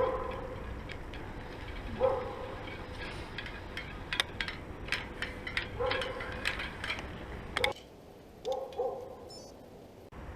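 A dog yipping and whining in short high calls, four of them spread across a few seconds, with scattered sharp clicks in between.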